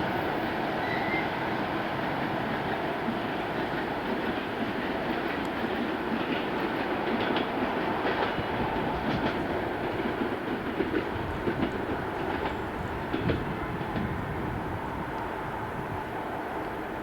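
ED9M electric multiple-unit train running along the track, a steady rumble with the wheels clacking over rail joints, the clacks busiest in the middle of the stretch.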